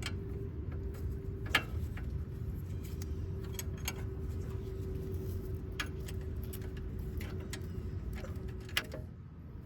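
A few sharp metallic clicks and clinks of hand tools at work on the exhaust fittings, spaced a second or more apart. Underneath is a steady low hum with a faint held tone that stops near the end.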